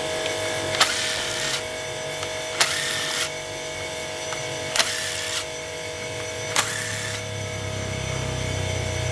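A small motor running steadily with a whine. Four sharp clicks come about two seconds apart, each followed by a brief hiss, and a lower hum builds near the end.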